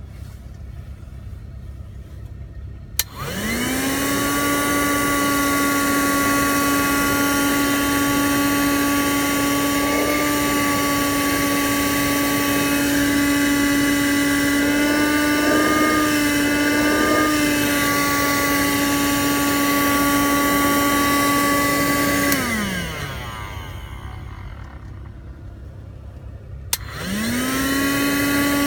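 Vacuum cleaner switched on with a click about three seconds in, its motor spinning up to a steady whine and running for about twenty seconds with slight wavers in pitch. It is then switched off and winds down, and near the end it clicks on again and spins back up, running normally.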